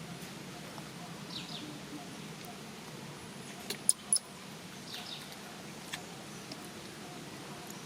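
Steady background hiss with faint, short, high-pitched animal chirps every few seconds. Three sharp clicks about four seconds in are the loudest sounds.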